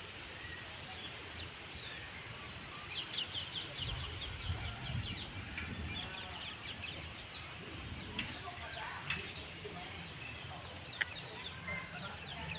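Small birds chirping in quick runs of short, high notes, busiest a few seconds in and again later, over a low, uneven outdoor rumble.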